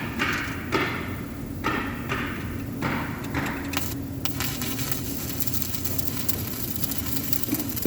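Welding repair work: five short scraping strikes on metal in the first few seconds, then from about four seconds in a steady, fine crackling hiss typical of an arc welder burning, over a low steady hum.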